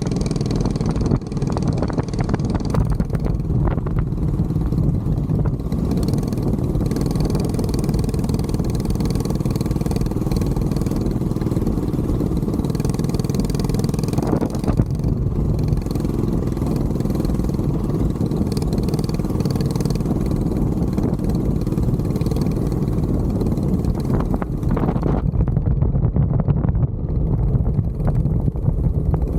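Mini bike engine running steadily under way, with a few brief knocks.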